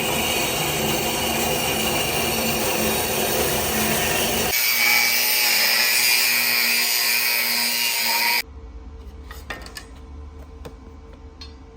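Power tool cutting or grinding metal. It runs loudly for about eight seconds, with an abrupt change of tone about halfway through, then stops, leaving small clicks of handling over a low hum.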